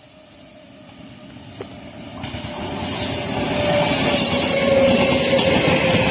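Indian Railways electric locomotive hauling a passenger train approaching and passing close by at speed: a rushing rumble of wheels on rail that grows louder over the first three seconds and then stays loud, with a whine that drops slightly in pitch as the locomotive goes by.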